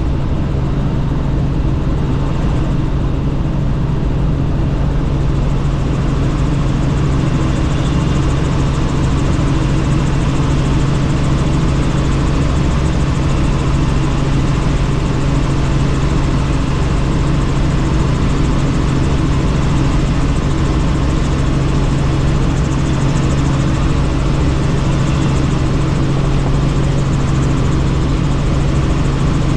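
Helicopter in steady flight heard from on board: a loud, even drone of rotor and engine with a strong constant low hum and a wash of rushing air.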